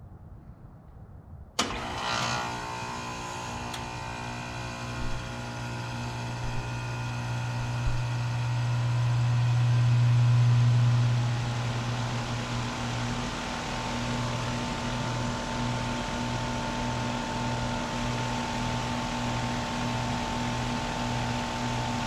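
Carrier Comfort heat pump outdoor unit starting up in heat mode: the compressor kicks on suddenly about a second and a half in, then runs with a steady low hum. The hum swells for several seconds before settling into an even, slightly pulsing run. The startup is a normal one, without any issues.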